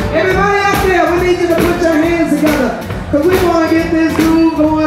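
A woman sings long held notes with vibrato over blues band accompaniment, in two phrases with a short break about three seconds in.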